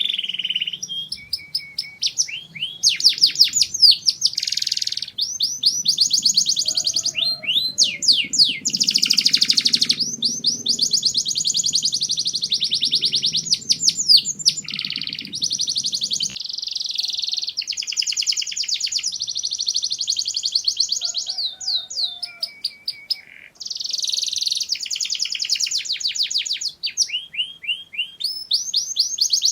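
Domestic canary singing a long song of rapid, high-pitched trills and rolls, phrase after phrase with brief pauses between.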